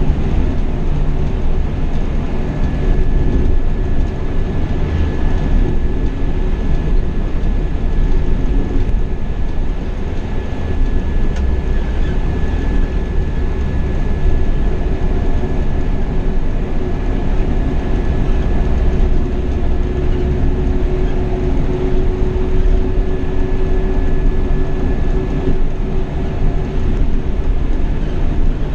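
Marcopolo Paradiso 1800 double-decker coach on a Scania K420 chassis cruising on the highway: a steady low rumble of tyres, road and the rear engine, with a thin steady whine running through it.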